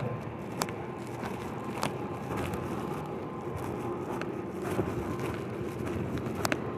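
Steady rumble of vehicles running at an outdoor scene, with a faint steady tone and a few sharp clicks.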